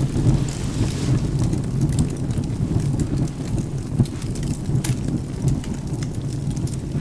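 Steady rain over a continuous low rumble of thunder, with scattered sharp crackles from burning wood in a fireplace.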